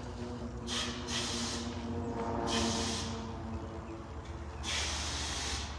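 Four short bursts of hissing noise, the third and fourth the longest, over a steady low hum.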